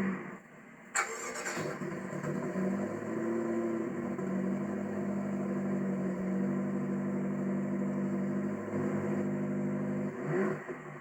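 2012 BMW X6 M's twin-turbo V8 idling steadily, with a sharp click about a second in and a quick rev near the end.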